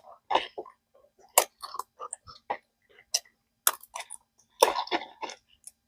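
Collard green leaves being harvested: several sharp cracks as the leaf stems are broken off the stalks, with rustling of the big leaves between them.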